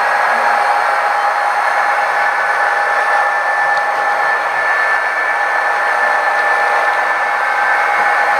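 Model train running: a steady electric-motor whine, in two pitches that drift slightly upward later, over an even rushing noise.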